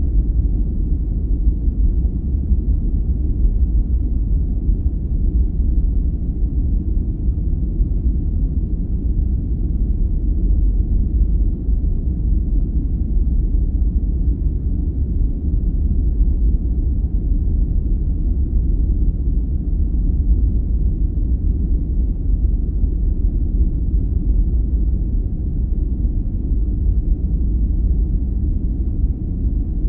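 Steady, deep rumbling noise of a sleep-aid noise track, heavy in the bass with no high hiss, more like brown noise than true white noise; it stays even throughout.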